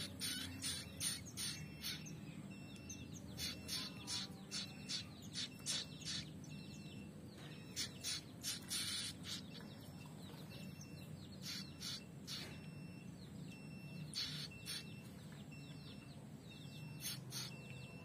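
Prinia (prenjak) fledglings giving short, sharp chirps in quick runs of several, with brief pauses between runs: the begging calls of young birds wanting food.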